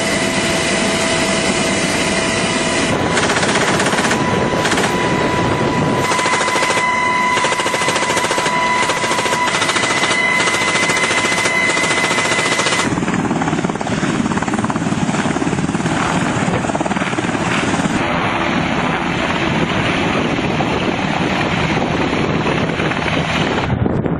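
Steady loud aircraft noise, heard from on board, with high steady whining tones over it that cut off about thirteen seconds in, where the sound changes.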